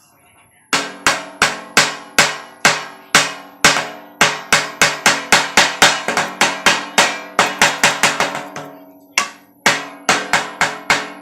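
A yardstick drumming on a dented metal popcorn tin: quick hits about three a second, each leaving a short metallic ring, with a brief pause about nine seconds in before the drumming resumes.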